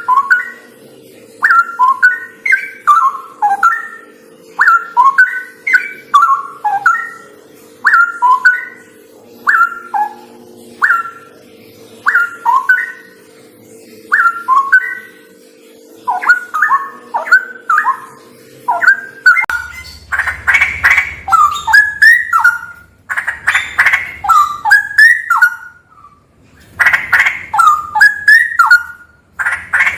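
Straw-headed bulbul (cucak rawa) singing loud, rich bubbling phrases of gliding whistled notes, about one phrase a second. A steady low hum under the song stops about two-thirds of the way through, and from then on the phrases come faster and closer together.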